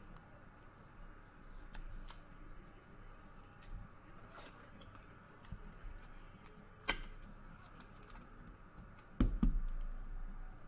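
Trading cards and plastic card sleeves being handled on a table: small clicks, scrapes and rustles, with a sharp tap about seven seconds in and a heavier thump a couple of seconds later.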